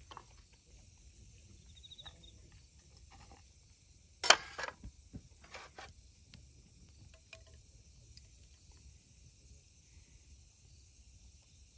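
Crickets and other autumn insects chirping steadily, with one sharp clatter about four seconds in and a few smaller knocks after it.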